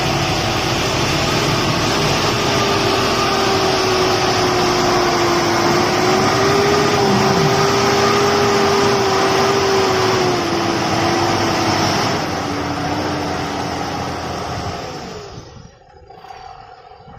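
A motor vehicle driving, a steady engine and road noise with a slowly wavering engine pitch. It drops away sharply about fifteen seconds in.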